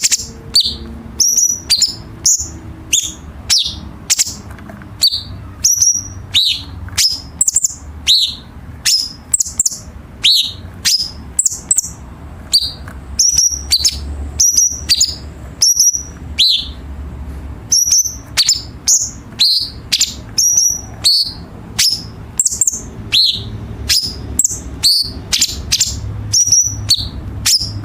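Cucak cungkok bird calling in rapid, sharp, harsh notes, about two a second, many sweeping down in pitch: the dense 'tajam rapat' kasaran fill and 'tembakan' shots prized in masteran recordings for contest songbirds.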